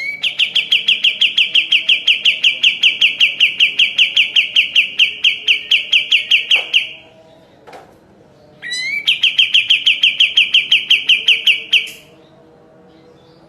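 Kapas tembak bird singing its rapid 'tembakan' trill: fast, evenly repeated notes at about seven a second, held for about seven seconds. After a short pause a rising note leads into a second, shorter burst of the same trill.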